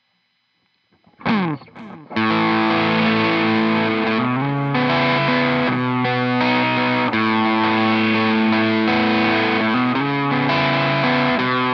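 Clifton dual-humbucker Telecaster electric guitar played through heavy distortion. After a moment of near silence comes a quick sliding sweep and a couple of stabbed notes, then from about two seconds in a steady distorted chord riff with changing chords.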